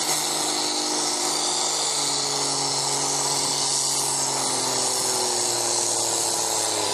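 Tractor-pulling machine's engine running hard with a high whine, its pitch slowly falling from about two seconds in.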